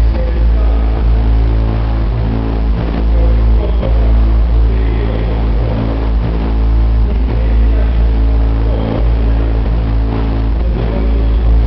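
A competition car-audio subwoofer system in a van playing very loud, steady deep bass.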